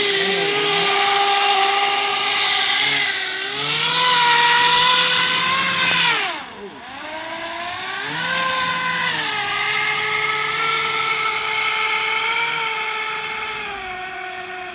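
Electric RC airboat's brushless motor (a D3642, 1450 kV) driving a cut-down three-blade propeller: a loud, steady whine. Its pitch rises and falls with the throttle, drops away sharply about six and a half seconds in, then climbs back and holds.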